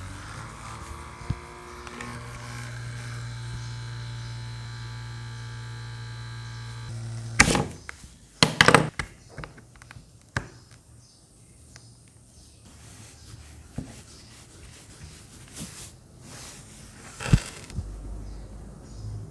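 Small electric motor, likely the gadget's mini USB fan, running with a steady hum and then stopping about seven seconds in. Several sharp clicks and knocks of plastic being handled follow, the loudest just after the motor stops.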